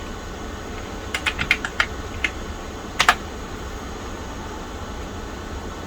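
Keystrokes on the Tandy 1000 EX's keyboard: a quick run of about eight key clicks starting about a second in, then a single louder keystroke around three seconds in. A steady low hum runs underneath.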